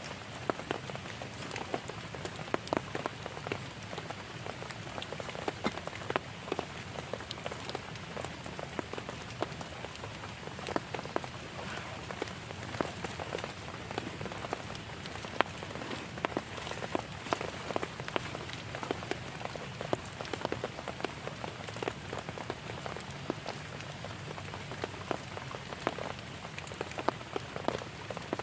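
Heavy rain falling steadily: a constant hiss with many sharp ticks of single drops striking a surface.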